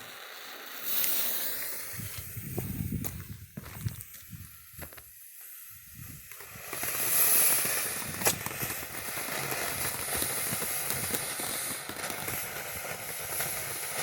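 Jade Flower fountain firework spraying sparks with a steady hiss and scattered crackles. The hiss starts about a second in and gets louder and brighter about seven seconds in. Wind gusts rumble on the microphone.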